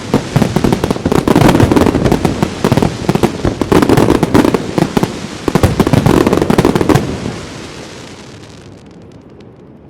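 A rapid barrage of aerial firework bursts, bang after bang with crackle, that stops about seven seconds in and leaves a fading echo.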